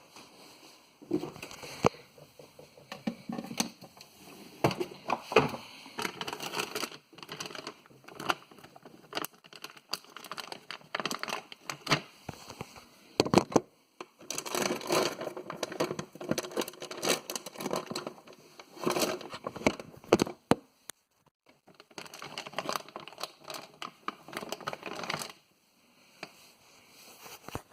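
Rummaging through a fridge: plastic packaging crinkling and rustling, with items knocking and scraping in irregular bursts broken by a few short pauses.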